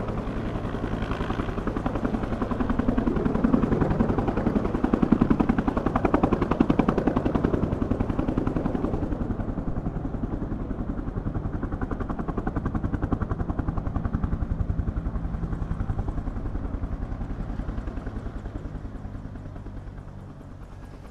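Helicopter running nearby, its rotors chopping in a fast, even pulse that gradually fades over the second half.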